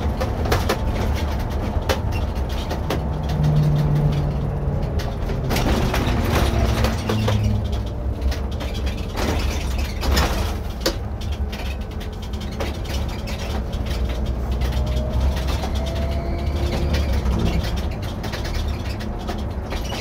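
Irisbus Récréo II coach with a ZF EcoMat automatic gearbox on the move, heard from the driver's seat: a steady low engine and drivetrain rumble with pitch lines that shift now and then, and frequent short knocks and rattles from the bodywork.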